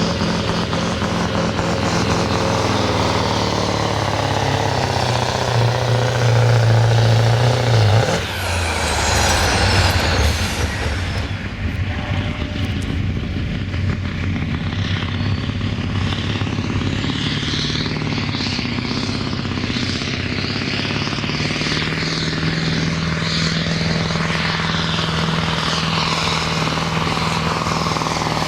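Diesel engine of a sport pulling truck running hard, loudest about six to eight seconds in, then letting off abruptly with a falling whistle, and carrying on at a steadier, lower running.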